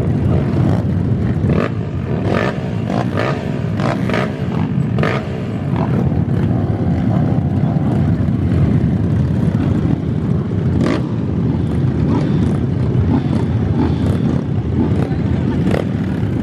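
Motocross bike engines running in a steady rumble, with voices of onlookers mixed in.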